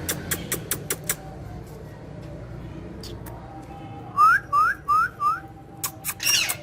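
Green ringneck parrot (Indian ringneck parakeet) calling: a few short sharp chips at first, then four quick rising whistles in a row, then a couple of loud harsh squawks near the end.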